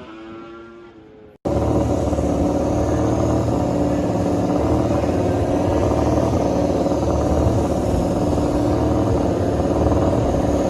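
MotoGP race bike engines: a passing bike's note fades away, then after a sudden cut about a second and a half in, a loud engine runs steadily at a held rpm.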